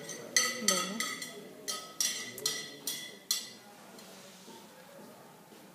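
Repeated sharp clinks of glass or crockery being handled, about three a second, each with a short bright ring, stopping a little over three seconds in; faint voices murmur behind.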